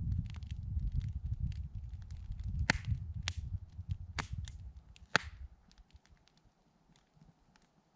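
Campfire wood crackling, with several sharp pops and snaps over a low rumble that dies away about halfway through, leaving only faint small ticks.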